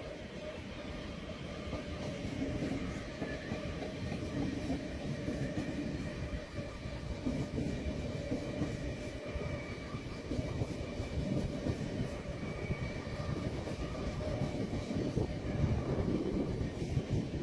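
A train running along the track: a steady rumble of wheels on rail with a faint whine, growing louder toward the end.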